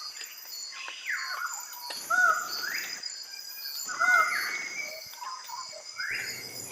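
A bird calling with repeated upward-swooping notes, three louder ones about two seconds apart, over a steady high insect drone.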